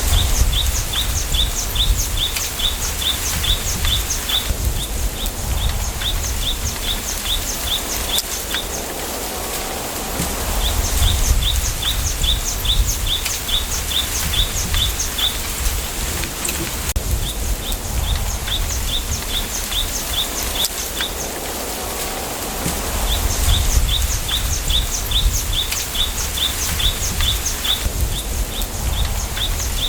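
Wind through a bamboo grove, with leaves rustling and a low rumble that swells in gusts. Over it a bird repeats runs of sharp, high notes, about three a second, each run lasting a few seconds.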